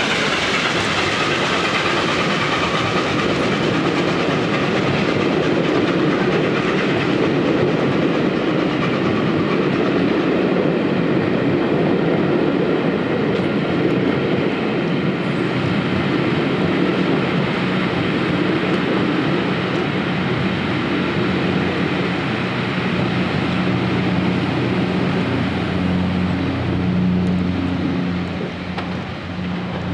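Passenger coaches of a steam-hauled train rolling past over pointwork, wheels clattering steadily. In the second half a steady low hum builds as an electric multiple unit approaches.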